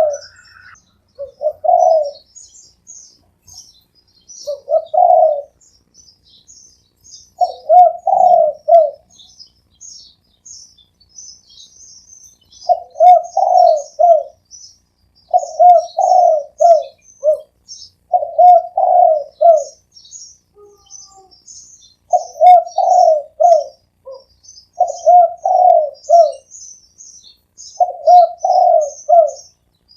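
Spotted dove cooing in repeated phrases of several notes, one phrase every two to three seconds with a longer pause about two-thirds of the way through. Small birds chirp high and thin throughout.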